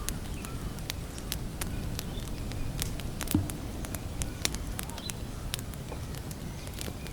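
Wood campfire crackling, with irregular sharp pops and snaps over a low rumble of burning, and one heavier low thump a little under halfway through.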